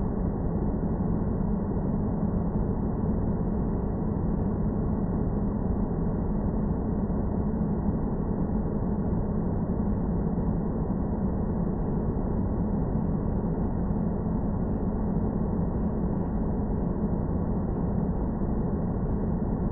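Synthesized space-planet ambience: a steady, dark, low rumbling drone with a humming band low down and nothing bright above it, unchanging throughout.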